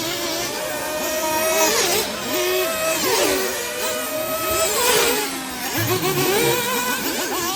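Several 1/8-scale nitro off-road buggy engines running together on a track, their high-pitched whines overlapping and rising and falling as the cars accelerate and back off.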